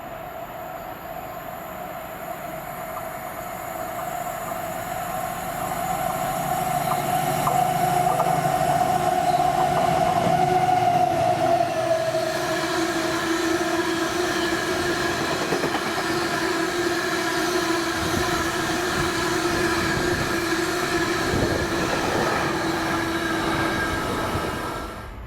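A train running past, its noise building over the first few seconds and then holding steady, with a continuous whine that drops to a lower pitch about halfway through.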